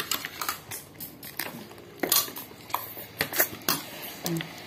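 Close-up eating sounds: irregular wet smacks and chewing clicks from a mouth eating rice by hand, with a brief hum near the end.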